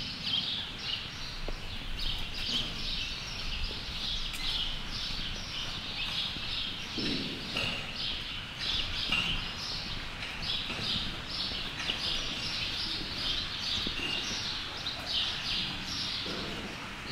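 Many small birds chirping continuously, a dense chorus of short, high, quickly repeated calls over a low background hum.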